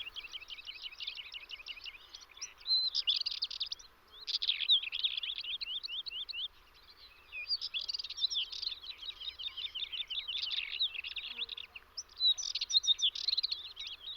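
Songbirds singing: phrases of rapid, high twittering notes, broken by short pauses.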